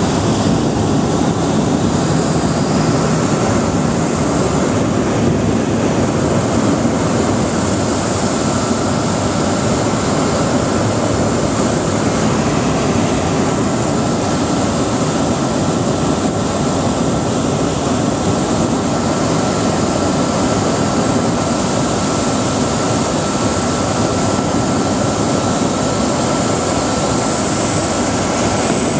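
Cessna 208 Caravan's single PT6A turboprop engine and propeller running steadily, a loud, even drone with a thin high whine held over it.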